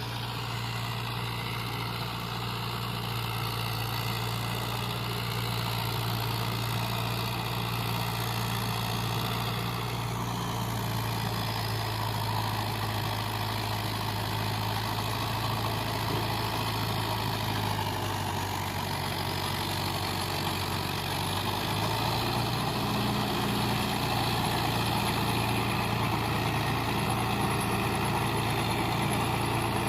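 Mahindra tractor's diesel engine running steadily while plowing, its pitch shifting slightly about ten seconds in and again around twenty seconds in, growing a little louder after that.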